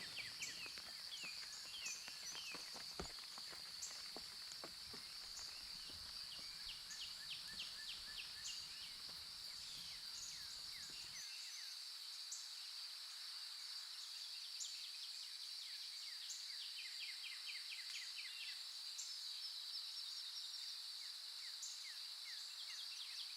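Steady high-pitched insect drone with birds chirping in short, quick trills over it. The low background rumble cuts out about halfway through.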